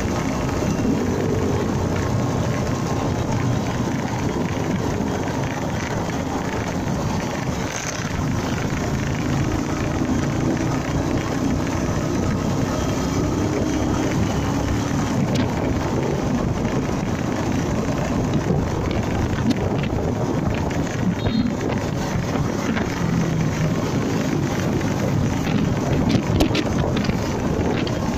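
Honda MegaPro motorcycle on the move: steady wind rush over the microphone with the engine note rising and falling underneath.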